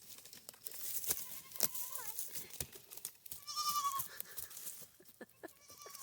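A young goat bleating, three calls: a wavering one about a second in, a louder one past the middle and a short one at the end, with rustling and small clicks around them.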